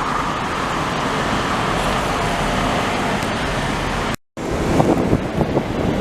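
Steady roar of road-traffic noise that drops out suddenly for a moment about four seconds in, then comes back with wind gusting on the microphone.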